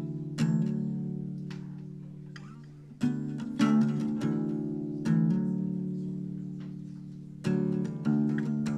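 Guitar playing slow chords; each chord is struck and left to ring out, fading before the next one.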